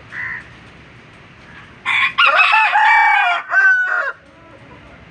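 A rooster crows once, loudly, in a single call of about two seconds starting near the middle.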